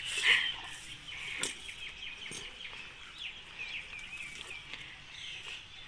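Small birds chirping, many short high calls repeating throughout, with a few sharp clicks, the clearest about one and a half and two and a half seconds in.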